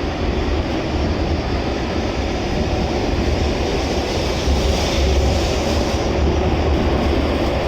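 N700S Shinkansen train pulling out of the station and running past, a steady loud rush over a deep rumble that swells slightly partway through.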